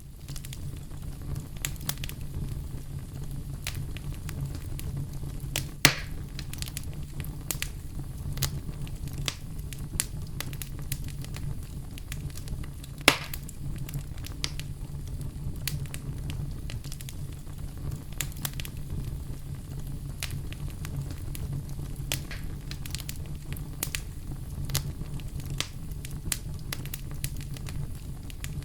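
Campfire burning, the wood crackling with scattered sharp pops over a low, steady rumble; two louder pops stand out, about six and thirteen seconds in.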